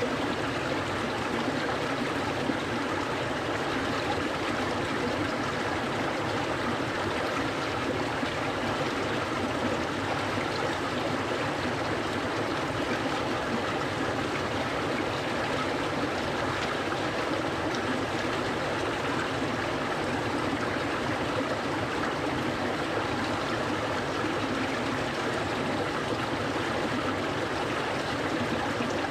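Clear mountain stream flowing over rocks, a steady rushing and babbling of running water.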